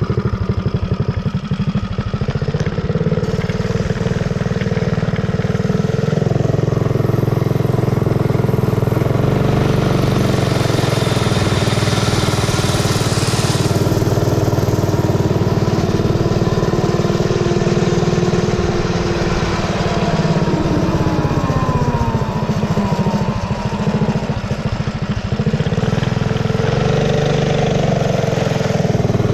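Predator 212cc single-cylinder four-stroke engine on a mini bike, running under way as it is ridden. The engine revs up and eases off several times, climbing in pitch about ten seconds in, dropping back past twenty seconds and climbing again near the end.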